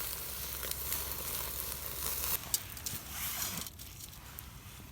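Meat sizzling on a grill over a wood fire, a steady hiss that drops away suddenly about two and a half seconds in, followed by a few light clicks.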